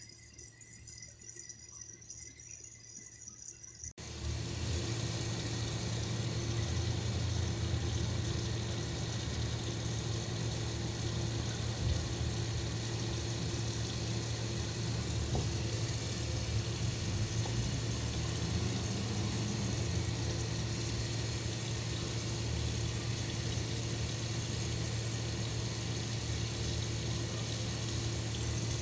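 Steady rush of running water with a low hum underneath. About four seconds in it cuts in suddenly, replacing a quieter, uneven water sound.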